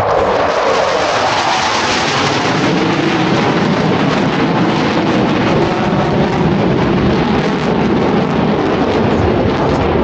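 Loud jet noise from Blue Angels F/A-18 Super Hornets flying past, with the pitch falling in the first second as a jet goes by, then a steady, even rushing sound.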